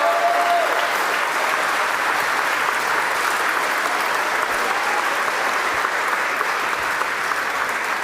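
Large crowd applauding and cheering steadily, with a short whoop near the start.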